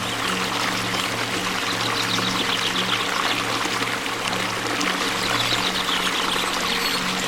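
Waterfall, a steady dense rush of falling water, with a few low steady hum tones underneath. A faint, rapid high ticking comes in twice, about two and five seconds in.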